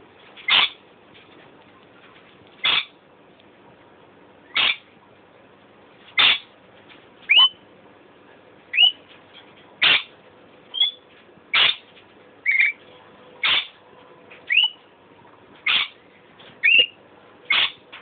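Pet bird calling over and over: a short, loud call about every two seconds, with thinner whistled notes slipped in between the calls from about halfway on.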